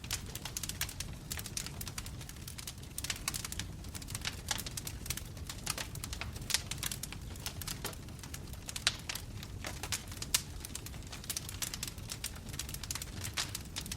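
Wood fire burning in a fireplace: irregular sharp crackles and pops from the burning logs over a steady low rumble of flame.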